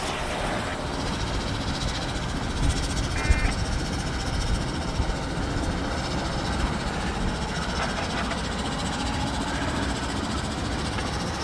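Slow-moving autorack freight train rolling past, a steady low rumble of wheels on the rails.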